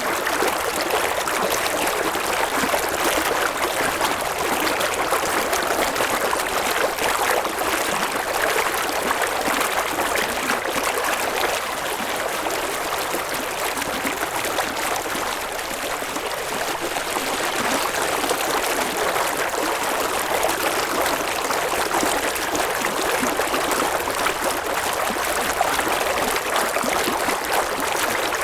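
A river or stream babbling over rocks: a steady, even rush of water.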